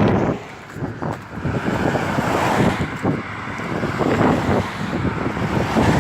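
Storm wind gusting and buffeting the microphone, rising and falling in uneven surges.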